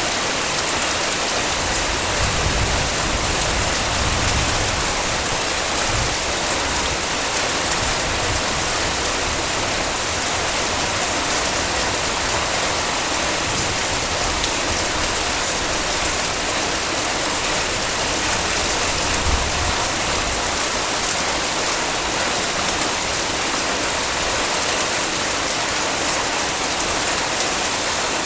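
Heavy rain falling steadily, a dense even hiss of drops, with a few brief low gusts or rumbles.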